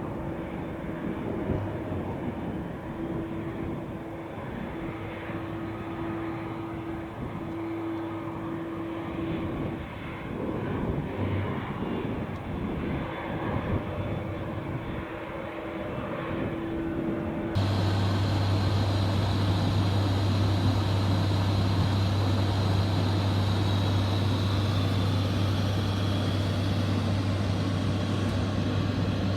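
Airplane engine noise, steady, with a held tone over the first part. About two-thirds of the way through it cuts abruptly to a louder, steadier engine sound with a deep hum.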